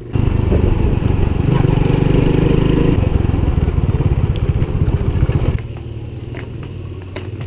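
Small motorbike engine running close by with a fast, even putter, its level dropping suddenly about five and a half seconds in and running on more quietly.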